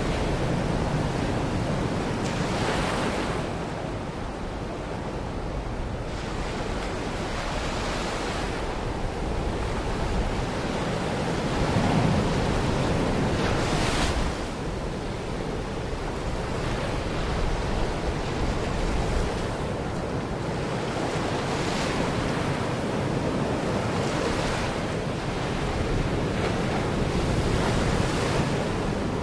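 Baltic Sea waves breaking and washing onto the shore, a steady rushing surf that swells every few seconds, with wind on the microphone.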